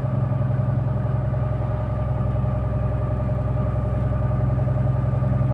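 KamAZ 4308 truck's diesel engine running steadily at low revs, a low even drone with a fine regular pulse.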